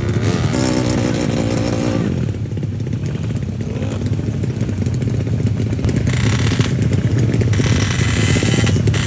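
A tuned automatic scooter's engine running. Its pitch wavers for about two seconds, then drops to a rougher, steady running, with two short, louder, brighter spells about six and eight seconds in.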